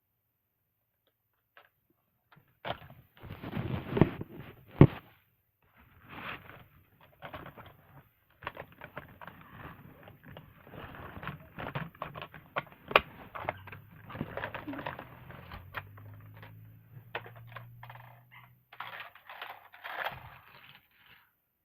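Hands handling a toy truck and its packaging: irregular rustling, clicks and knocks, with two sharper knocks around five and thirteen seconds in and a faint low hum in the middle.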